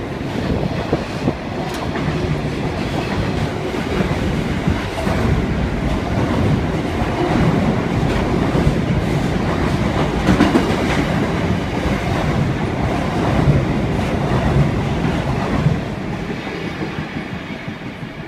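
Train running past on the tracks, a steady rumble with its wheels clacking over the rail joints, growing quieter near the end.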